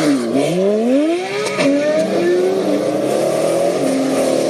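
A car engine accelerating hard: its pitch climbs steeply, falls back about one and a half seconds in, and then holds steadier at a lower pitch, stepping down once more near the end.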